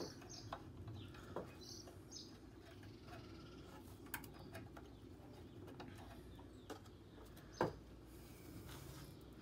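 Quiet background with a few short bird chirps in the first couple of seconds. Occasional light clicks and taps come from handling the scooter, the loudest a single sharp click about three-quarters of the way through.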